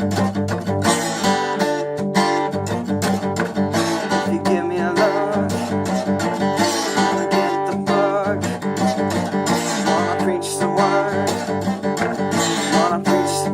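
Acoustic guitar played with a slide in a blues-rock riff: strummed chords mixed with gliding, wavering slide notes.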